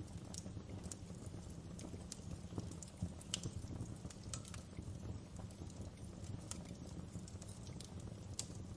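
Wood fire burning in a fireplace: a steady low rumble of flames with irregular sharp crackles and pops from the burning wood and embers.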